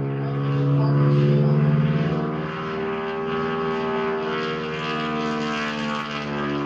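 Propeller drone of a biplane's Pratt & Whitney radial engine in flight, steady with a slight shift in pitch, loudest a second or two in.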